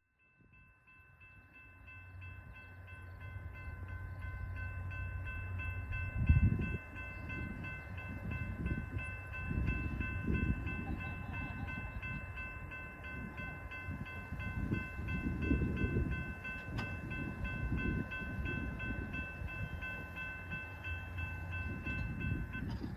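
Railway crossing warning bell ringing rapidly and steadily while a train passes over the crossing, its rumble building over the first few seconds and then surging unevenly. The bell stops shortly before the end.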